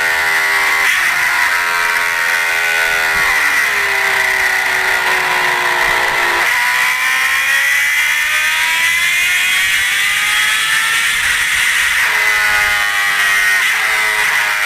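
Motorcycle engine under way, its pitch sinking for several seconds as the bike slows, then climbing steadily as it speeds up again from about halfway through, with further rises and falls near the end.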